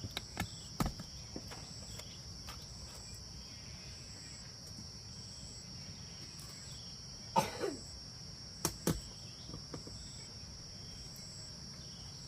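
Insects chirring steadily, with a higher trill pulsing about once a second. Scattered sharp knocks come in the first few seconds and twice near 9 s, and a short falling sound is heard about 7 seconds in.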